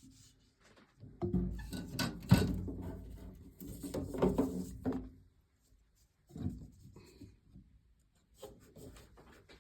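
Hands working on furnace parts: irregular rubbing and scraping with a sharp knock about two seconds in, then a pause and shorter spells of handling near the end.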